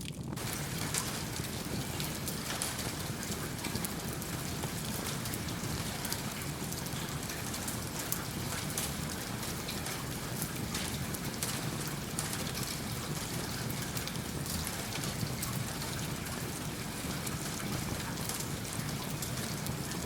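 Steady rain, mixed with the faint scattered crackle of a wood fire in a fireplace.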